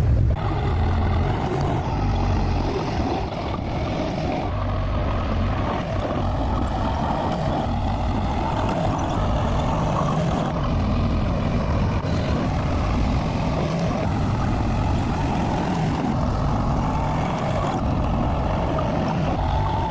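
Bulldozer's diesel engine running steadily under load.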